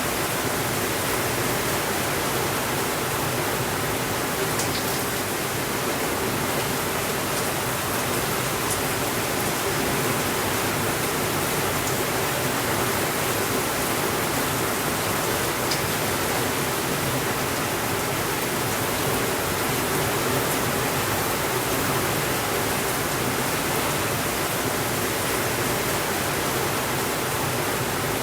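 Steady rainfall, an even unbroken hiss with no thunder, with a few faint ticks now and then.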